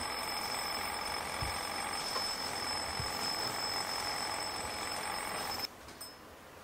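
Small alarm clock ringing with a steady, continuous high ring, cut off suddenly near the end when it is switched off.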